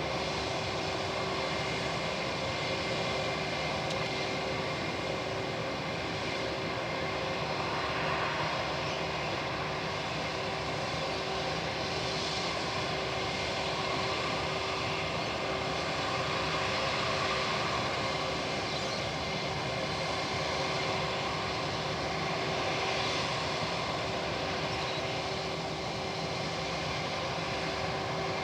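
Boeing 787 airliner's jet engines running at taxi power: a steady whine over a constant rush, with no build-up to takeoff thrust.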